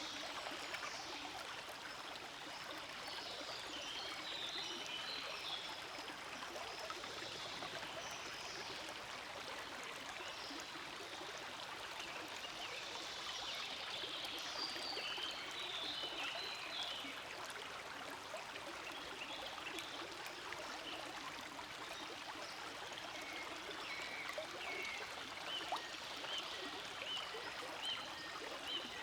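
Forest stream flowing steadily, a continuous rush of water with brighter trickling at times.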